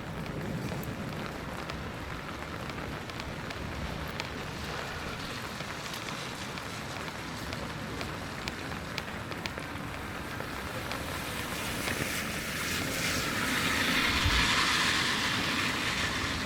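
Steady rain with scattered drops ticking, and a vehicle passing on the wet road, its tyre hiss swelling over the last few seconds.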